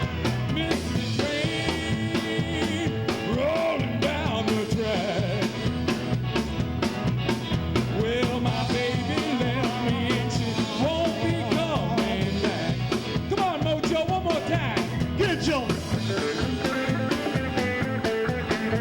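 Live band playing a rock-and-soul number, with singing over a steady drum beat.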